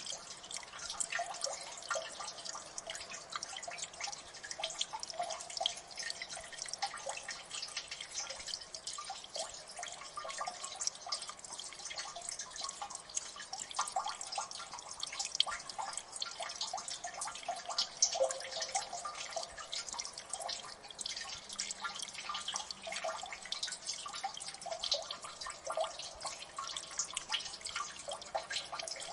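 Water dripping in a gully: many fast, irregular drops plinking, with a faint wash of water beneath.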